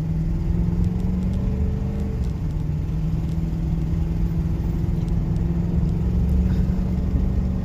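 Ford pickup truck driving, its engine running steadily under low road rumble, heard from inside the cab. The engine note climbs, drops about two seconds in, then climbs slowly again.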